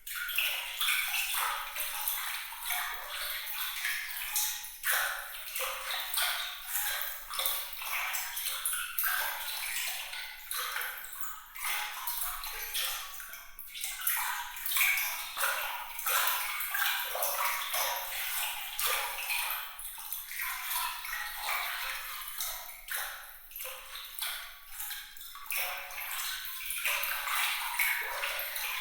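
Water trickling and dripping continuously: a dense, bright patter of small drops, plinks and splashes with no low rumble.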